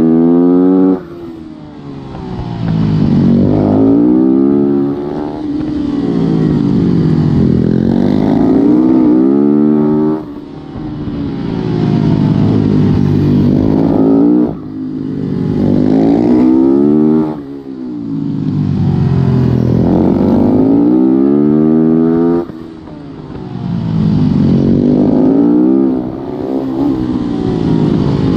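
Supermoto motorcycle engine heard on board at race pace, revving up through the gears in rising sweeps. The throttle snaps shut about five times as the rider brakes for corners, then the engine winds back up.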